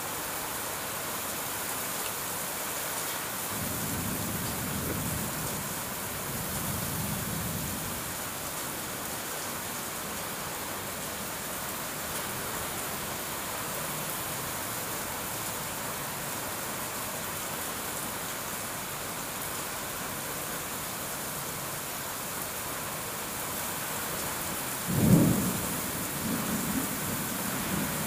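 Heavy rain pouring steadily onto wet paving in a windy downpour. Low rumbles come and go a few seconds in, and near the end a sudden loud low boom rises above the rain and trails off in further rumbling.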